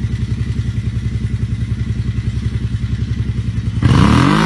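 Off-road vehicle engine idling with a steady, even pulse, then revved hard near the end, its pitch climbing quickly.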